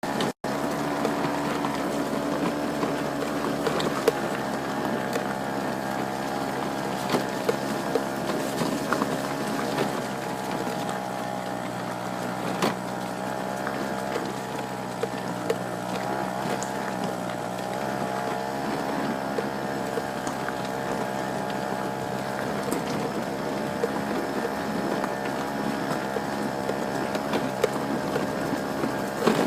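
Steady whine of small motors: several held pitches wavering slightly together, with scattered light clicks throughout.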